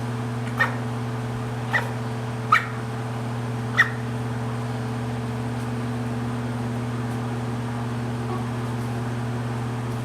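A steady low mechanical hum, with four short, sharp animal calls that fall in pitch in the first four seconds.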